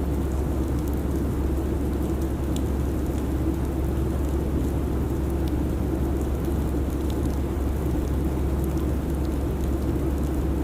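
Steady airliner cabin noise in cruise: an even low rumble and hiss that does not change, with a few faint scattered ticks.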